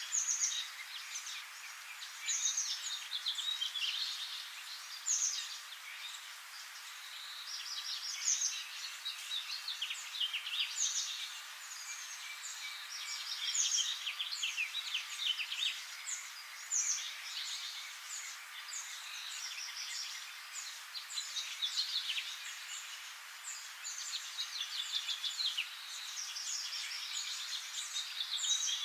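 Several small songbirds singing and calling in a forest, a dense run of short high chirps and trills that overlap one another, over a faint steady hiss.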